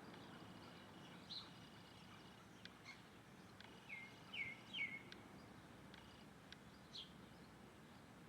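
Birds giving short, scattered chirps over a faint steady hiss, the loudest a few quick falling notes about four to five seconds in.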